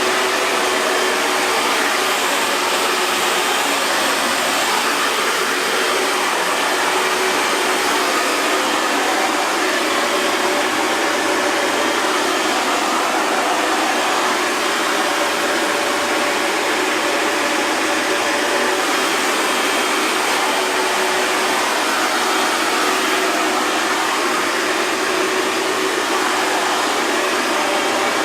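Hair dryer running steadily: an even rushing of air with a faint motor hum underneath.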